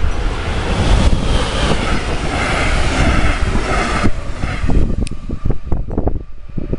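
A train passing close by: a loud rush of wheel and air noise that drops away sharply about four seconds in, followed by a few low knocks. Wind buffets the microphone with a low rumble throughout.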